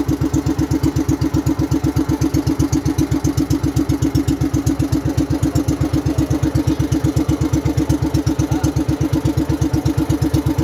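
Engine of a motorized bangka (outrigger boat) running steadily with a fast, even beat of about ten pulses a second.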